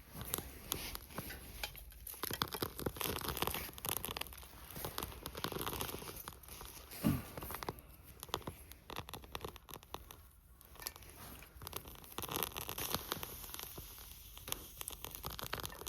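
Irregular rustling, crinkling and tearing handling noises with scattered small clicks, and one soft low thump about seven seconds in.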